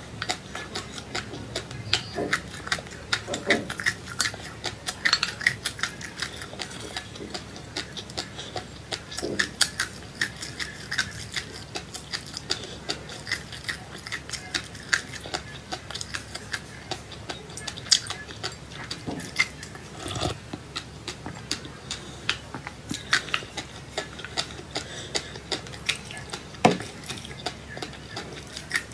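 Close-up crunchy chewing of seeds: rapid, irregular crackling clicks, several a second, with a few louder cracks.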